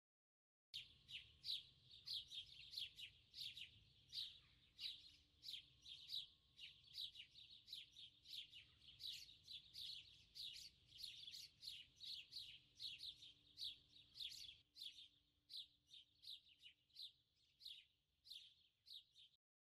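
Small birds chirping: a steady run of short, high chirps, two or three a second, that starts abruptly and cuts off abruptly.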